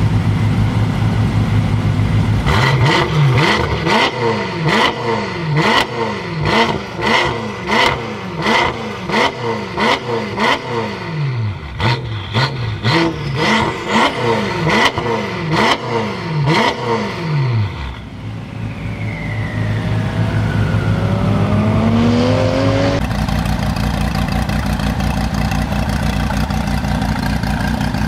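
BMW M5 F10's twin-turbo V8 through a Meisterschaft race exhaust: idling, then blipped hard about once a second for some fifteen seconds, with sharp pops on each rev. It drops back, climbs in one slower, longer rise that cuts off abruptly, and settles into a steady idle.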